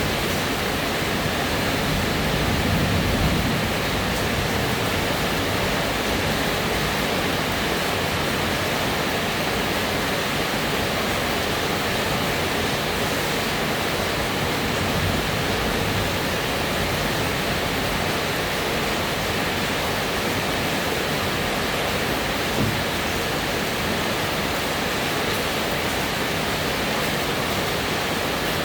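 Steady rainfall: an even hiss of rain that holds without a break.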